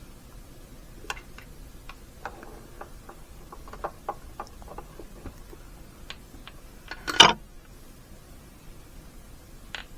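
Small scattered clicks and taps of hand work on a backpack blower's fuel tank, fishing out the fuel filter on its line with a hook, with one louder clack about seven seconds in.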